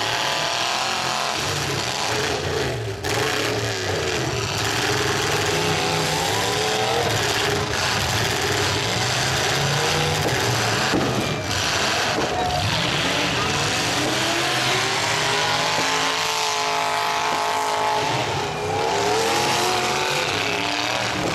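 Several demolition derby cars' engines running and revving at once, their pitch rising and falling, over a continuous wash of noise.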